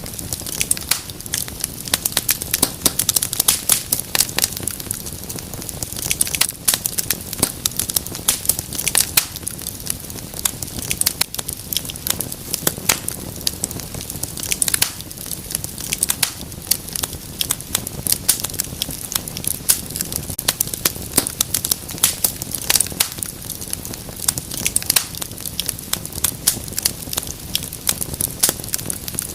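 Wood fire crackling steadily, with dense irregular pops and snaps over a soft hiss.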